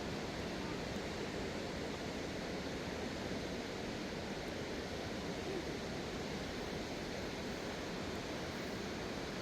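Steady rushing of a river swollen by heavy rain, a constant even noise of fast-flowing floodwater.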